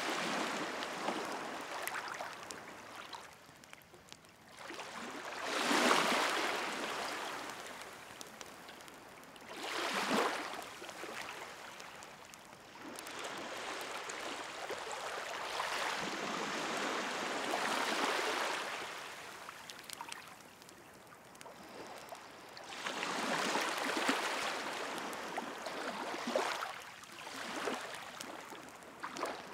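Sea waves washing onto the shore, each surge swelling and fading away every few seconds, with the faint crackle of a wood fire underneath.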